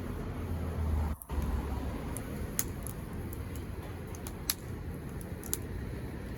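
Wood fire burning with a steady low rumble and hiss, broken by a few sharp crackling pops. The sound briefly cuts out just after a second in.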